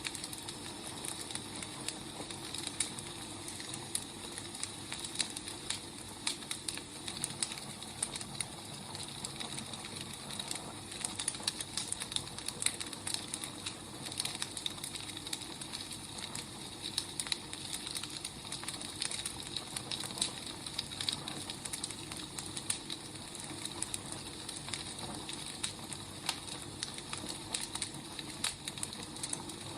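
Burning firewood crackling steadily: a soft hiss with irregular sharp pops and snaps.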